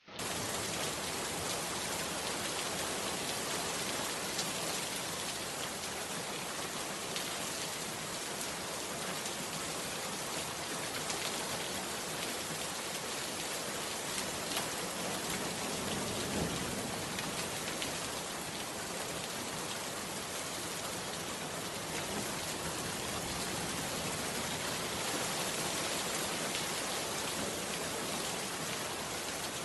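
Steady rain falling, an even hiss with the patter of drops, starting suddenly and holding level throughout.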